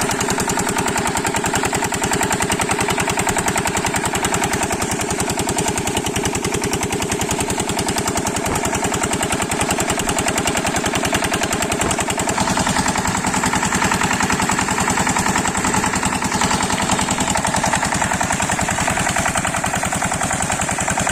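8hp diesel engine of an irrigation water pump set running steadily, its firing strokes making a rapid, even beat.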